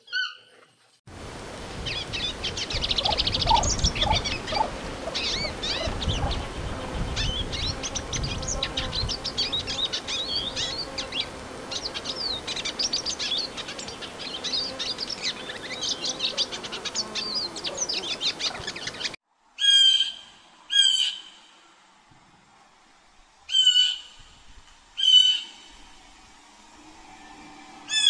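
A dense chorus of many birds chirping and calling at once, which cuts off abruptly about two-thirds of the way through. A few separate loud calls from a single bird follow, two pairs about a second apart and one more near the end.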